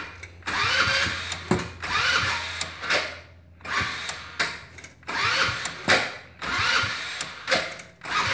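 Electric starter of a 150 cc carbureted go-kart engine cranking in a string of short bursts, each about a second long, without the engine catching. This is a cold start on a starter that is failing.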